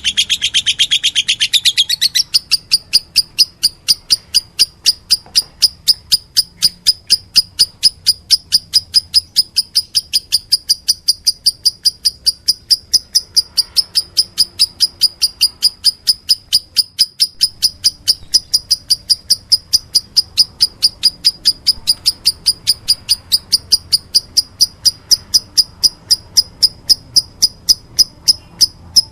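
Birds chirping busily for about two seconds, then a steady, evenly spaced run of short high chirps, about three a second.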